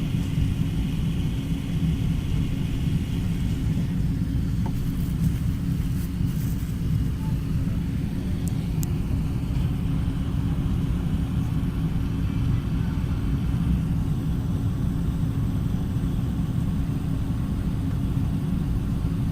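Steady low rumble of cabin noise inside an Airbus A380, with an even hum from the aircraft's engines and systems. A few faint ticks come between about five and nine seconds in.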